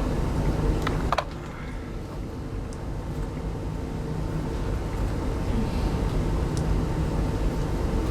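Steady low hum inside a type 25T railway passenger coach, with a few sharp clicks; the hum drops a little about a second in.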